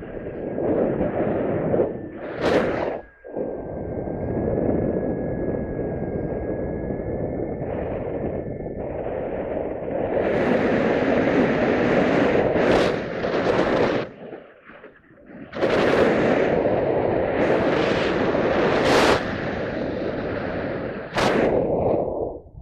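Wind buffeting the microphone: a heavy rushing roar that rises and falls in gusts, with sharp blasts and two brief lulls.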